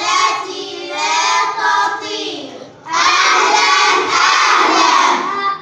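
A group of children singing together in chorus; about three seconds in they break into a louder group shout that lasts about two and a half seconds and stops just before the end.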